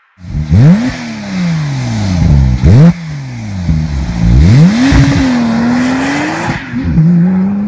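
Porsche 911 Turbo S Exclusive Series twin-turbo flat-six revved in several sharp blips that rise and fall quickly. It then holds a longer high rev, drops near the end, and climbs again slowly and steadily, as if pulling away.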